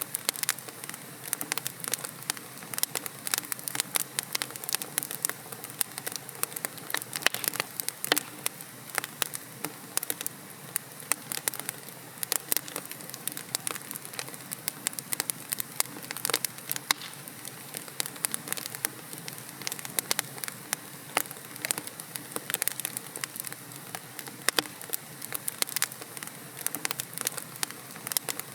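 Wood logs burning in a fireplace, crackling and popping with many sharp irregular snaps, several a second, over a soft steady hiss.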